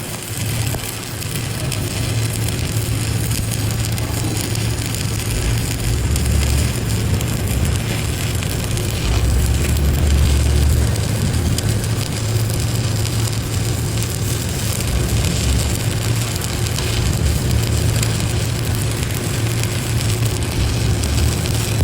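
Stick-welding arc from a 7018 electrode laying a fill or cap pass on a steel test plate: a steady, unbroken crackle and hiss over a low hum.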